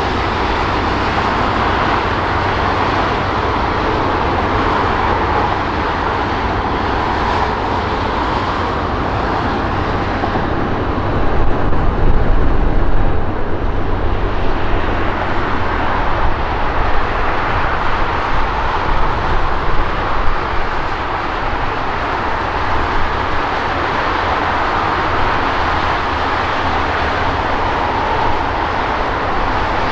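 Jet airliner engines rushing loudly and steadily, with wind buffeting the microphone in gusts partway through.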